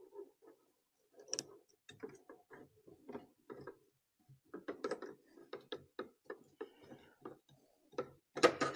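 A Phillips screwdriver tightening a hose clamp on a diesel heater's hose, making a run of irregular small clicks and ticks with a short pause about halfway through.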